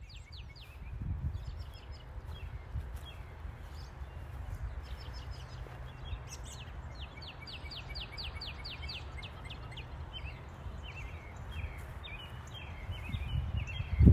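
Birds singing in runs of quick, short falling chirps over a steady low rumble, ending on a sharp thump.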